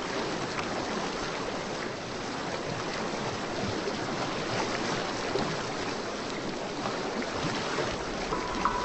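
Steady rushing of water with an even hiss, as in a relaxing ocean-sounds recording. A few sustained musical tones come in near the end.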